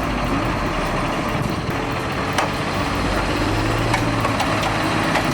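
Heavy machine engines running steadily with a low hum, the engines of tractors and a mini crane at work, with a few sharp knocks.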